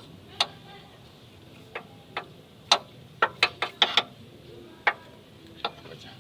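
Irregular sharp metallic clicks and knocks from hand tools working on a car's engine mounting bracket. There is a quick run of several clicks midway.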